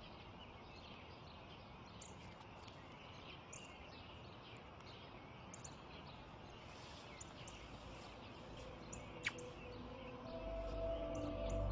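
Faint garden ambience with small birds chirping here and there, and one louder, short falling call about nine seconds in. Soft, slow music fades in near the end.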